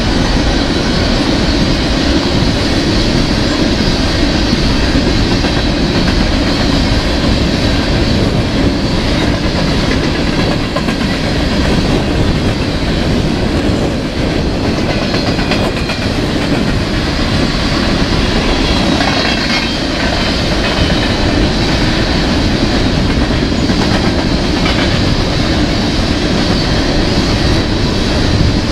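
A freight train of coal gondola cars rolling past close by: a steady, loud rumble of steel wheels on rail, with repeated clicks as the wheels pass over the rail joints.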